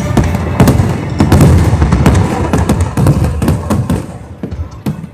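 Fireworks going off in quick succession: a dense run of booms and crackles that thins out and gets quieter about four seconds in.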